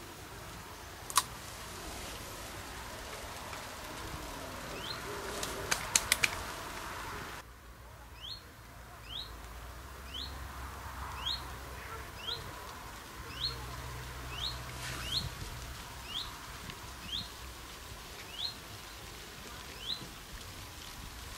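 A small bird calling over and over with a short high chirp, about one a second. A sharp click sounds about a second in and a quick cluster of clicks around six seconds in, louder than the chirps.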